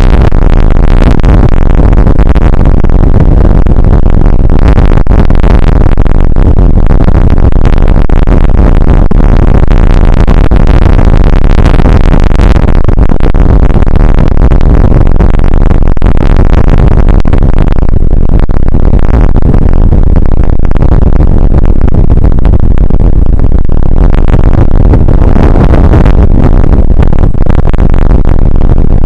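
Rain shower on an outdoor weather camera's microphone: a loud, steady, distorted rush of noise, heaviest in the low end.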